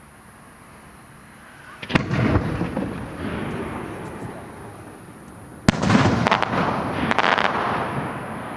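Aerial firework shells bursting: a boom about two seconds in with a long rolling echo, then a sharper bang about halfway through followed by a quick string of crackling pops.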